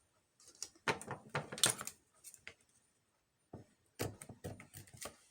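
Paper and small craft pieces being handled on a tabletop: rustling with light taps and clicks, in two short bursts with a pause between.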